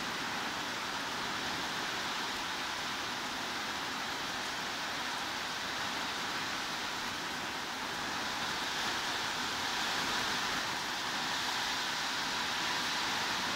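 Steady heavy rain, an even hiss with no separate drops or thunder.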